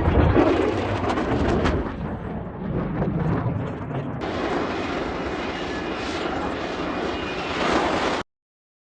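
Jet aircraft engines, a loud rushing noise that swells and eases, then cuts off suddenly a little over eight seconds in.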